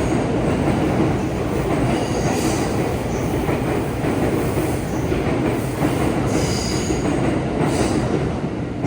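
Commuter train running on the rails with a steady rumble, and brief high-pitched wheel squeals twice.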